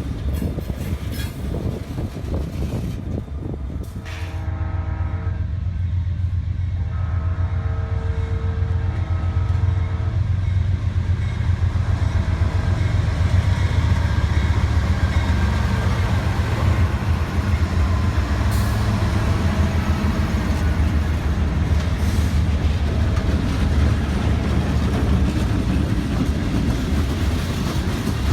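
A train running, with a heavy, steady low rumble that grows louder after a few seconds; its horn sounds two long blasts, a chord of several tones, a few seconds in.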